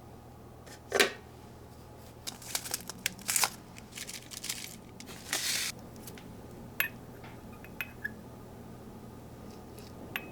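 Close-up handling sounds: a sharp scrape about a second in, then a run of crinkling, rustling and light clicks and taps, with a longer rustle near the middle. A low steady hum runs underneath.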